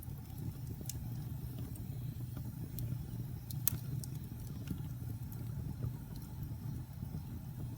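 Wood fire burning in a fireplace: a steady low rumble of flames with scattered crackles and pops, one sharper pop about halfway through.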